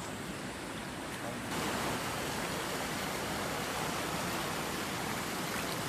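Steady rushing of water running down a small ditch, louder and brighter from about a second and a half in.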